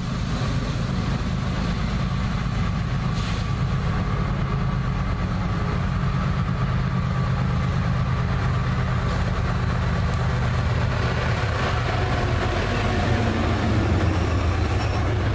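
Diesel locomotives of a freight train approaching and passing at track speed: a steady rumble of engines and steel wheels on rail, a little louder near the end as the locomotives go by.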